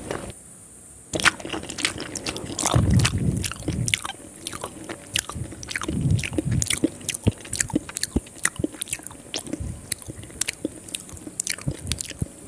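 Close-miked chewing of a mouthful of rice noodles: a quick, uneven run of wet mouth clicks and smacks that starts about a second in, with a few heavier low thumps among them.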